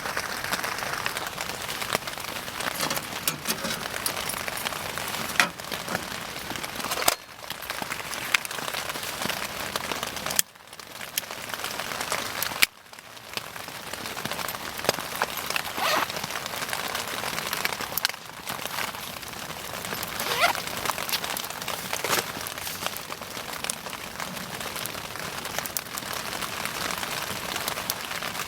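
Wood bonfire burning: a steady hiss of flames with frequent sharp crackles and pops, dipping briefly a few times.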